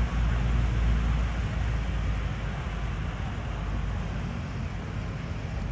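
Train running on rail: a steady low rumble with a broad hiss, easing slightly over the few seconds.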